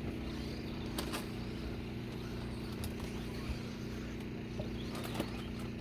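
Electric 2WD RC stadium trucks racing on a clay off-road track: a steady low hum with a few sharp clicks, one about a second in and one near the end.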